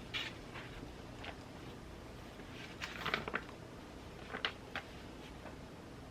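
Journaling supplies and paper being handled: scattered light taps, clicks and rustles, with a small cluster about halfway through, over a faint steady hiss.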